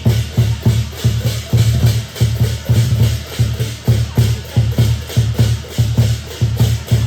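Lion dance percussion: a big lion drum beating a fast, steady rhythm with clashing cymbals and gong over it.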